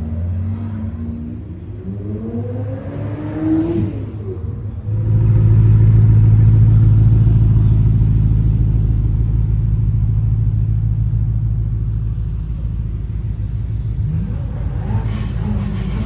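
Lamborghini Countach LPI 800-4's V12 engine and exhaust: revs rising in the first few seconds, then a sudden jump to a loud, deep, pulsing rumble about five seconds in that slowly eases off.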